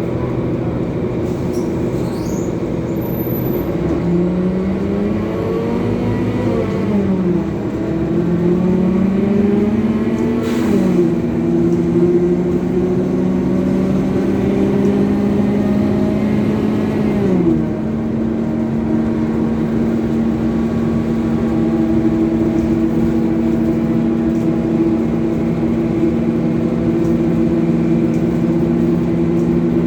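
Scania coach engine pulling up through the gears: its pitch climbs and drops back at each of three gear changes, then settles into a steady drone at cruising speed for the last dozen seconds.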